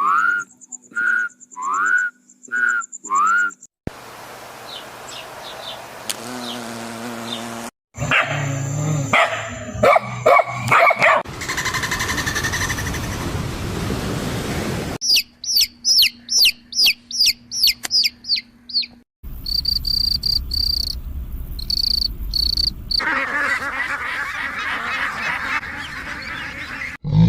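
A run of different animal calls, cutting abruptly to a new animal about every four seconds. It opens with a short rising call repeated about five times and includes a fast series of high-pitched chirps.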